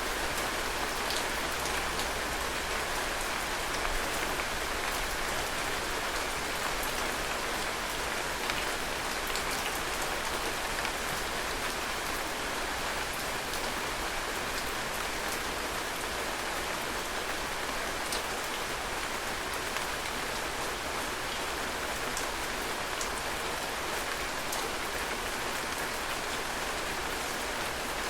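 Heavy rain falling steadily, a dense even hiss with occasional distinct drops pattering on surfaces.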